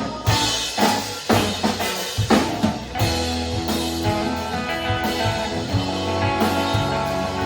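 Rock band playing: a drum fill of sharp hits across the kit for about the first three seconds, then the band comes back in with sustained guitar chords and bass over the drums.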